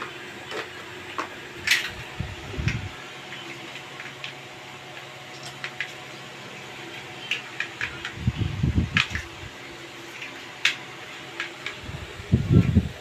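Scattered light clicks and taps of small play items being handled, with a few low thumps, about two and a half seconds in, around eight to nine seconds and near the end. A steady low hum runs underneath.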